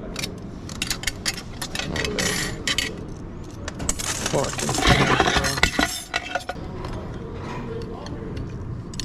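Steel transmission parts (rings and gears) clinking and clicking against each other as they are handled and fitted by hand. A louder, noisier clatter lasts about two seconds, starting about four seconds in.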